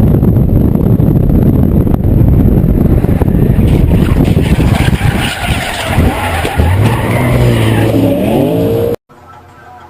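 Car tyres skidding over a loud rumbling road noise, with a car engine revving up in rising pitch near the end; the sound cuts off abruptly shortly before the end.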